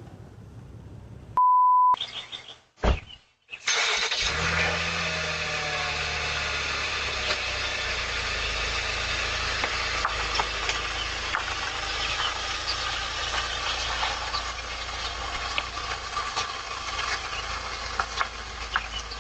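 A short steady beep about a second and a half in, typical of a censor bleep. From about three and a half seconds in, a vehicle engine runs with a low hum under a steady rushing noise dotted with many small ticks.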